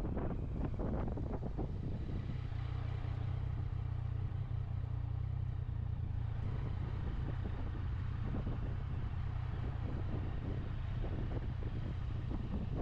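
Motorcycle engine running steadily, with wind buffeting the microphone.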